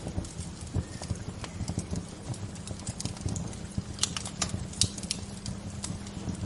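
Wood fire crackling, with irregular pops and snaps over a low rumble; a few sharper snaps come about four to five seconds in.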